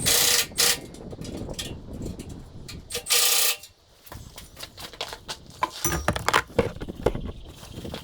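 Metal parts and tools being handled: irregular clinks and knocks, with two short loud bursts of noise, one at the start and one about three seconds in.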